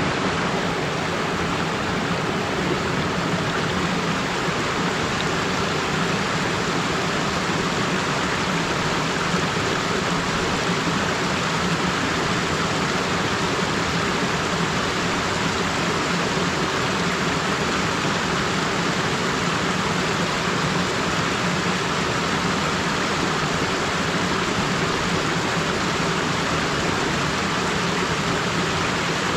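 Small mountain stream flowing over rocks: a steady, even rush of water.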